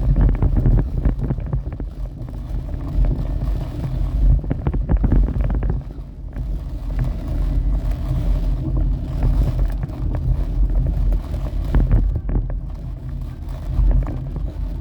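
Storm wind buffeting the microphone: a deep, uneven rumble that swells and dips in gusts.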